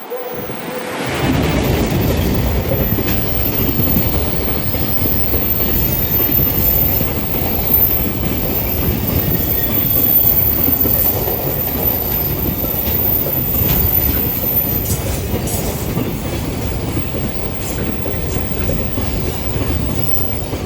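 A 521 series electric multiple unit passing close by, its wheels running loudly on the rails. The sound swells about a second in and stays steady and loud.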